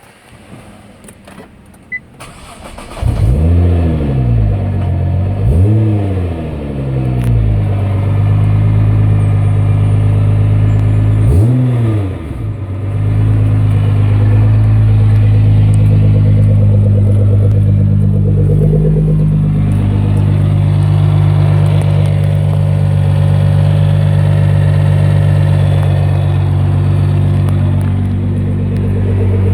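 Nissan GT-R R35's twin-turbo V6 starting about three seconds in, its revs rising and falling twice, blipped once more near the middle, then idling steadily. The owner points to this running as carrying an abnormal noise from the transmission.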